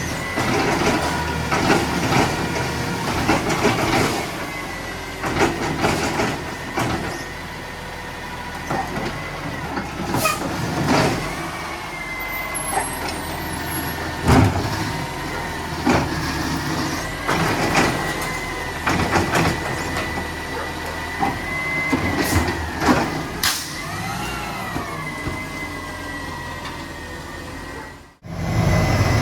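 Mack LR garbage truck with a Labrie Automizer side-loader running under load, a steady whine over the engine, broken by repeated clanks and bangs as the truck works the recycling pickup. Near the end a tone swoops up and down, and the sound cuts off abruptly shortly before the end.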